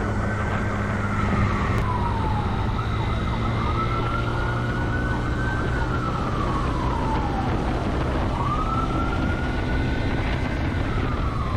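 Police car siren on a slow wail, rising and falling about every four and a half seconds, over steady engine and road noise from the pursuing car.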